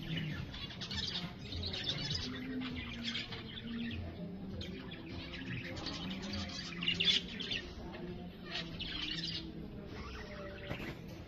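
Small birds chirping in quick, repeated bursts, over a low steady hum.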